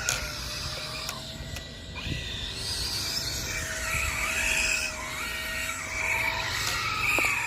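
Large-scale electric RC car's Hobbywing EZRun 7125 brushless motor whining, its pitch rising and falling several times as the car speeds up and slows, over a low rumble of wind and tyre noise.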